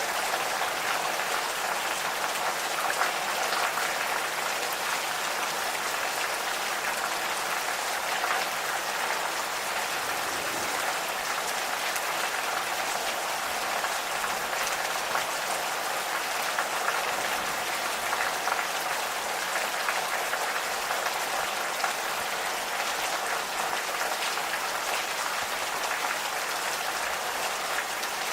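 Steady gentle rain falling, with many individual drops ticking through an even hiss.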